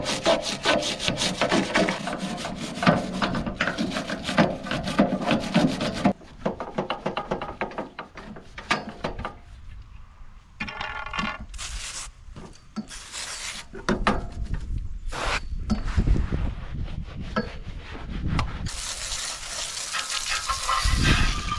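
Loose, flaking paint being scraped off the go-kart's metal with a hand scraper: about six seconds of rapid back-and-forth scraping, then slower, scattered scrapes and knocks with short pauses.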